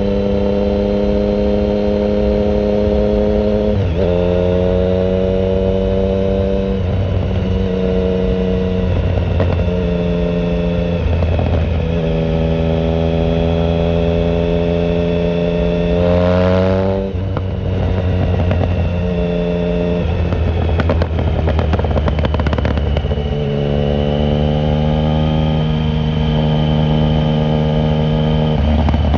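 2009 Triumph Speed Triple 1050's inline-three engine running through a shorty Competition Werkes exhaust with no silencer, heard from a phone in the rider's pocket while riding. The engine note steps up and down in pitch several times. About 16 s in it revs up sharply and falls away, followed by a few seconds of crackle.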